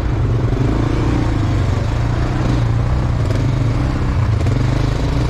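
A vehicle engine running steadily at an even speed, a constant low hum.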